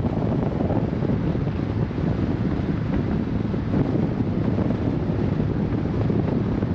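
Heavy wind buffeting the microphone of a moving motorcycle, with a steady low engine hum beneath the rush.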